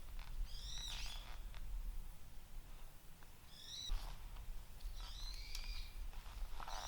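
Wild birds calling outdoors: short, high, arching chirps repeated every second or two, over a steady low rumble.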